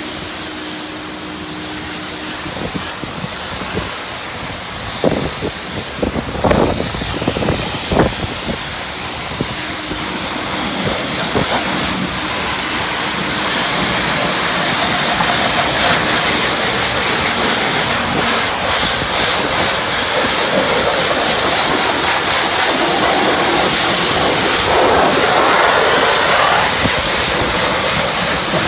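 High-pressure wand at a self-service car wash spraying onto a car body: a steady hissing spray that grows slowly louder, with a few knocks between about five and eight seconds in.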